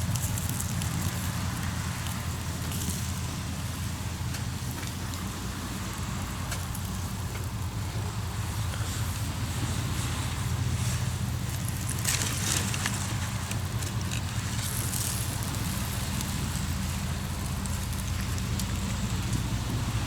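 Hardwood campfire crackling with small scattered pops, over a steady low hum like an idling engine.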